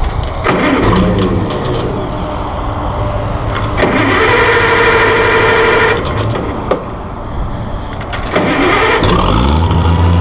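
1966 Oliver 1650's gasoline engine being cranked on the starter with the choke on, in more than one spell with a steady whine in the middle, then catching about nine seconds in and settling into a steady idle.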